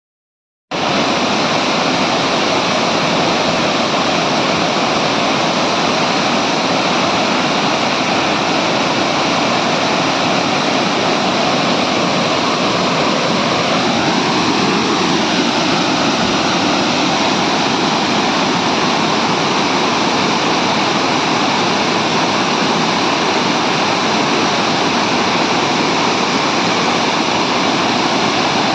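Waterfall pouring: a steady, loud rush of falling water that starts abruptly under a second in.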